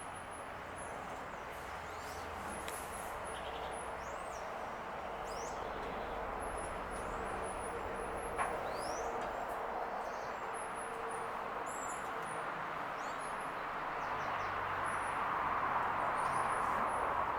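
Small birds calling: clusters of short, very high notes with a few quick rising whistles, over a steady background hiss that swells slightly near the end.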